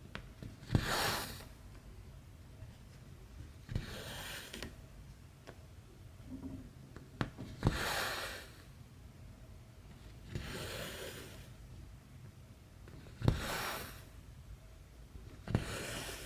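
Needle and floss being worked through cross-stitch fabric: each stroke is a sharp pop of the needle through the cloth followed by the swish of the thread being drawn through, six times at an even pace of about one stitch every three seconds.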